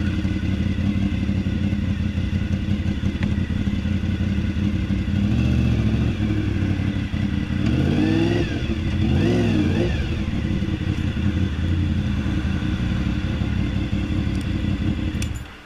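Honda VFR 750F's V4 engine running through an exhaust with no muffler during a slow ride, the revs rising and falling a few times about halfway through. The engine sound drops away suddenly near the end.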